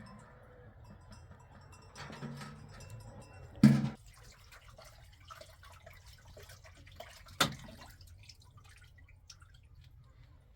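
Two sharp knocks about four seconds apart, the first heavier and lower, with faint small clicks between.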